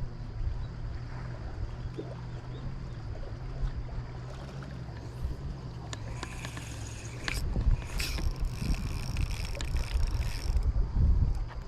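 A steady low engine hum, with a louder stretch of rustling noise from about six seconds in until shortly before the end.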